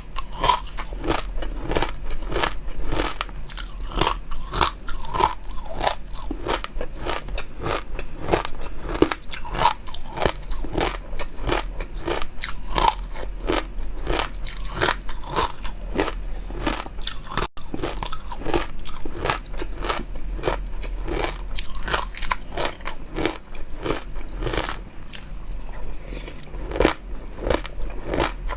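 Close-miked mukbang eating sounds: a person biting and chewing food with quick, irregular crunches and crackles, several a second.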